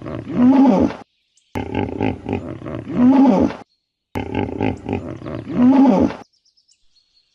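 A big cat roaring: the same short roar repeated three times with brief silences between. Each is a quick run of rough pulses ending in a louder call that falls in pitch.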